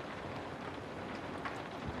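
Rain falling on a house: a steady hiss of rain with single drops striking now and then, two of them louder in the second half.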